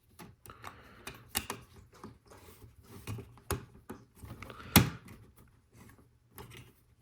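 Lego Technic plastic pieces clicking and knocking as they are handled and pressed together, with an irregular patter of small clicks and one louder snap about five seconds in.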